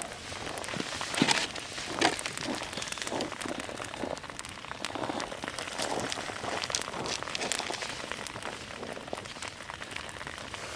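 Campfire cooking over hot coals: a steady crackle and sizzle with irregular sharp snaps, the loudest about one and two seconds in.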